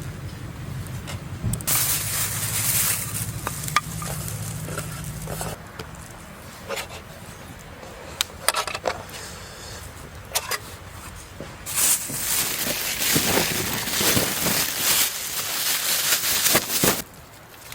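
Camp food preparation: ingredients handled and mixed, with scattered clicks and bursts of rustling noise, one about two seconds in and a longer stretch over the last five seconds. A low hum runs under the first five seconds.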